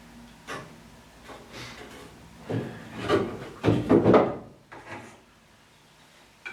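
Wooden boards being handled and slid against each other, a series of short scrapes and knocks, loudest around three to four seconds in.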